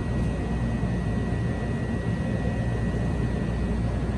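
Steady low rumble and hum of a stopped electric rapid-transit train standing at the platform, with a thin steady high whine over it.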